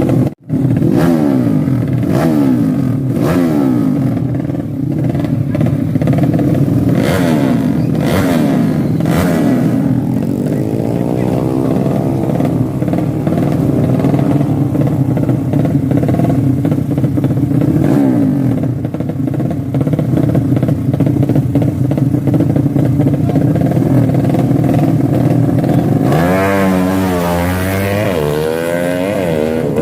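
200cc motorcycle engine running and being revved: its pitch rises and falls several times early on, swells and settles again about ten seconds in, and climbs sharply and drops back near the end.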